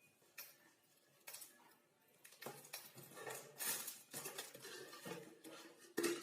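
Hard objects clinking and knocking together in an irregular run of sharp knocks, some ringing briefly. The knocks come more often from about two seconds in, and the loudest is near the end.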